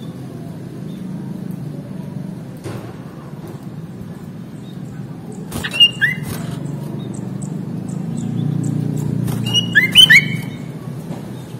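Sooty-headed bulbul (kutilang) giving two short bursts of sharp chirping calls, about four seconds apart, over a steady low rumble.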